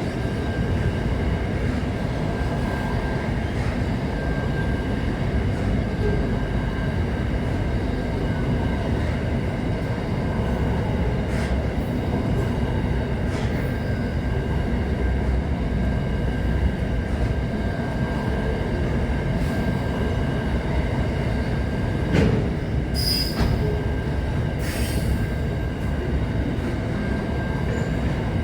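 Train running on rails with a continuous heavy rumble and a steady high whine. A few sharp clicks and a brief high wheel squeal come about three-quarters of the way through.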